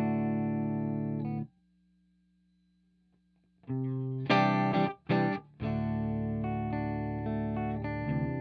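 Electric guitar (Aria Pro II Vanguard) played through a clone of the EarthQuaker Devices The Warden optical compressor into a tweed amp simulator: a long ringing chord is muted about a second and a half in, then after about two seconds of silence several chords are struck in quick succession and the last one is left to ring.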